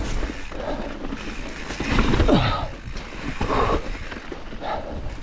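Mountain bike rolling down a wet, rocky trail: the tyres clatter and crunch over rock and gravel in uneven surges, with wind on the microphone and a short falling tone about two seconds in.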